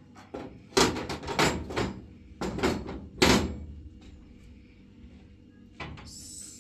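A run of irregular knocks and scraping clatters, like hard objects being handled and set down, bunched in the first half. One more knock comes near the end, followed by a brief high hiss.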